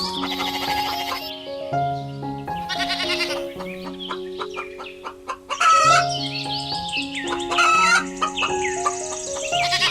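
Background music with a melody of held notes, over chickens calling, with the loudest calls about six seconds in and again near eight seconds.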